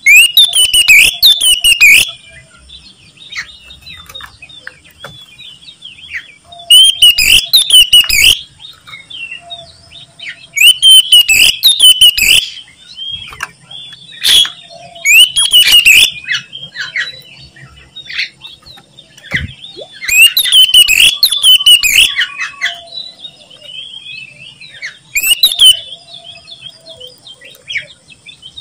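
Oriental magpie-robin singing in loud bursts of varied, harsh song, about six in all, some lasting around two seconds. Softer chirps come between the bursts.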